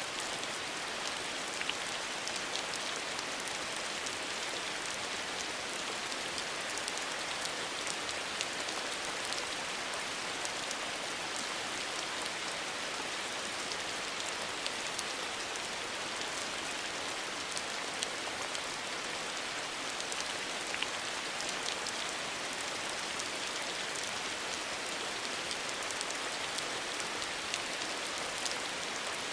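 Steady rain falling from the edge of a tiled hanok roof, a soft even hiss with many small drip and splash ticks scattered through it.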